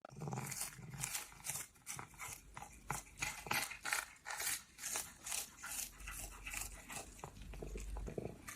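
A pet chewing something crunchy: a steady run of short crunches, about three a second.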